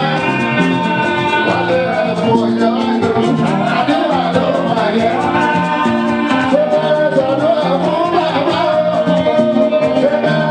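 Fuji band music with a lead vocalist singing over a live band and shaker-type percussion, playing without a break.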